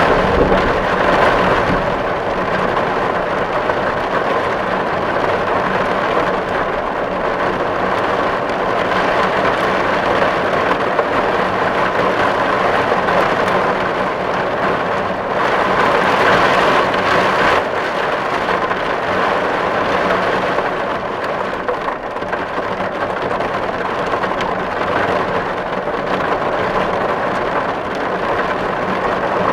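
Steady rain falling on a tin roof, a dense patter of drops on the metal that swells a little twice.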